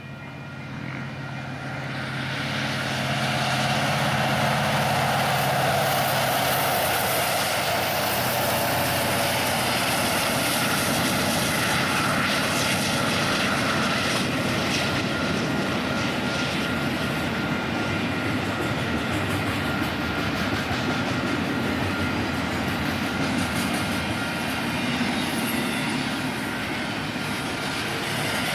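A Union Pacific train passing close by. A diesel locomotive's engine hum builds over the first few seconds, then the cars roll past with a steady noise of steel wheels on rail.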